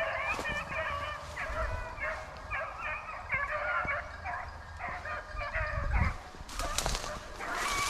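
A pack of rabbit hounds baying and yelping together while running a rabbit's track, many voices overlapping in steady rapid calls. Near the end comes a burst of crackling noise.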